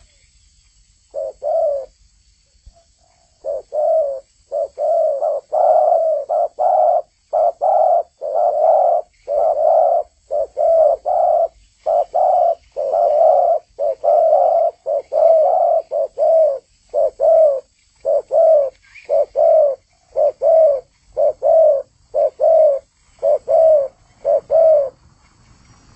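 Spotted dove (tekukur) cooing persistently: a long, unbroken run of short, low coos, about two a second, after a brief pause near the start.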